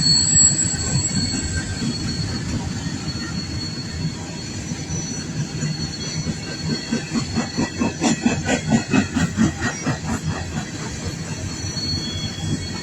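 Coal train freight cars rolling past with a steady low rumble and high, steady wheel squeal. From about seven seconds in, the wheels click rhythmically over the track, about three clicks a second, for a few seconds.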